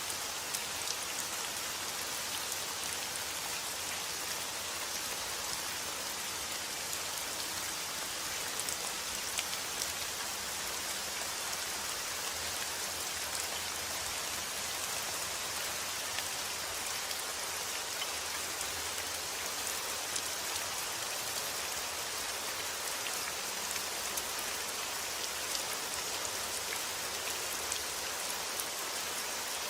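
Steady rain falling, an even hiss with many small drop ticks spread through it.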